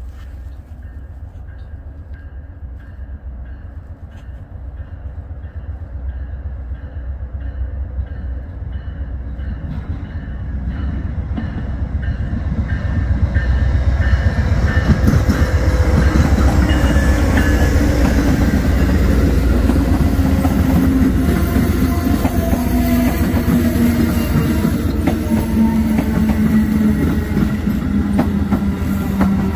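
Diesel freight train approaching, its low rumble building for about the first dozen seconds, then passing loud and steady, with a low engine tone that slides slightly lower near the end.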